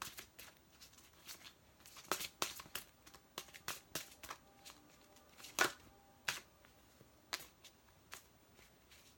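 A deck of oracle cards being shuffled by hand: irregular riffling and snapping of the cards, with one louder snap a little past halfway.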